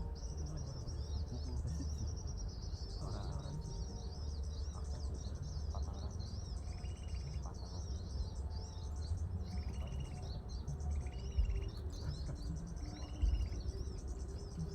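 Small birds twittering continuously in high, rapid chirps. From about six seconds in, a short buzzy lower call repeats about six times.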